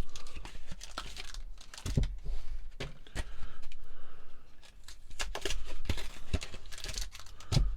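Foil trading-card booster pack wrappers being torn open and crinkled by hand, an irregular crackling rustle with a few soft knocks.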